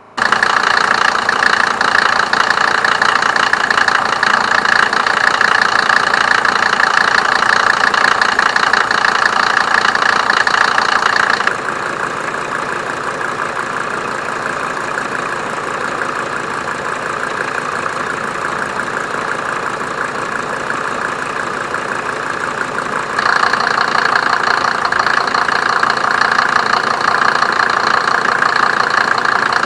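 Mercedes 190D's 2.5-litre five-cylinder OM602 turbo diesel idling steadily with diesel knock. The sound turns softer and duller about 11 seconds in and comes back louder and brighter about 23 seconds in.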